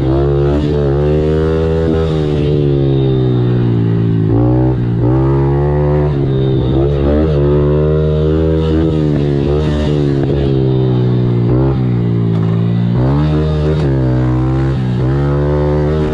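Small four-stroke pit bike engine running hard under a rider, its pitch rising and falling over and over as the throttle is worked on the track.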